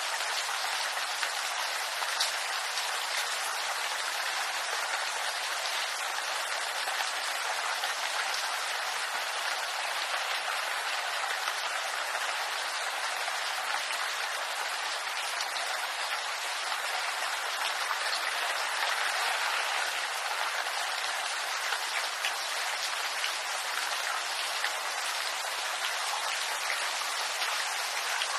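Steady rain falling on bamboo leaves: an even hiss of rain dense with tiny drop ticks, with no lulls or changes.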